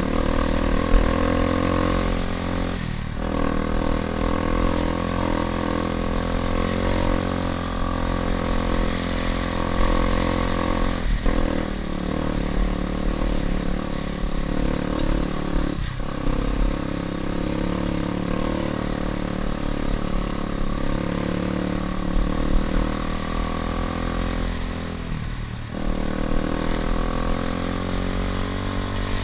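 Dirt bike engine running under changing throttle as the bike is ridden, its pitch rising and falling; the engine note briefly drops and picks up again about four times.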